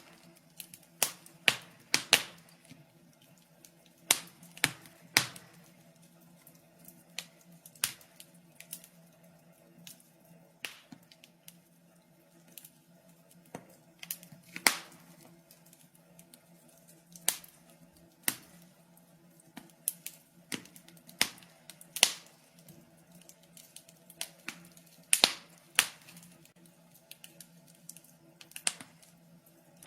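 Wood fire in a fireplace crackling: irregular sharp pops and snaps, a few each second and some much louder than others, over a faint steady hum.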